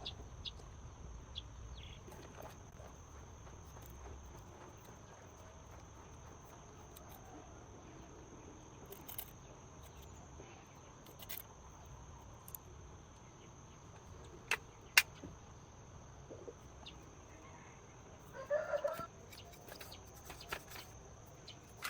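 Quiet outdoor background with a steady high-pitched whine, broken by scattered sharp clicks and knocks, the loudest about 15 seconds in. A short burst of animal calls comes about 18 seconds in.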